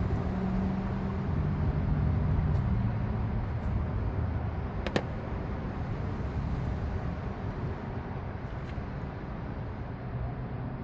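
A motor vehicle going by, its engine hum sliding down in pitch over steady low rumble, with one sharp click about five seconds in.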